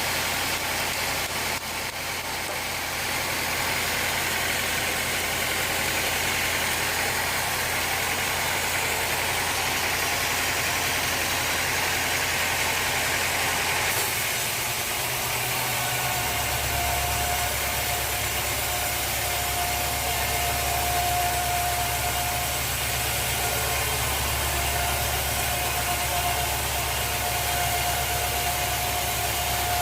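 Sawmill machinery running steadily, a low motor drone whose pitch shifts about halfway through, after which a thin steady whine joins in.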